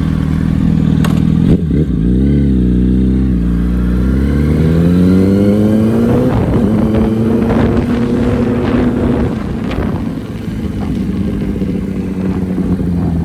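2008 Yamaha YZF-R1's inline-four engine and exhaust while riding. There is a brief break in the note about a second and a half in, then the pitch rises steadily under acceleration, holds level, and eases slightly around ten seconds in.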